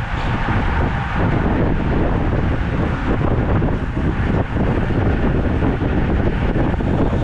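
Wind buffeting the microphone of a camera on a moving road bicycle. The rush of air is steady and loud, with a low rumble that flickers constantly.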